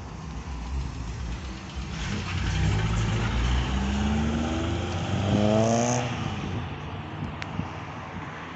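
A car engine revving as the car pulls away under hard acceleration. The pitch climbs, drops at a gear change about five seconds in, climbs again to its loudest near six seconds, then fades as the car leaves.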